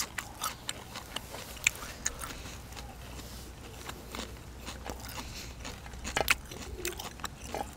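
Close-miked chewing of a mouthful of food, with scattered crisp crunches and wet mouth clicks. The crunches are thicker at the start and again near the end, with a quieter stretch of chewing in the middle.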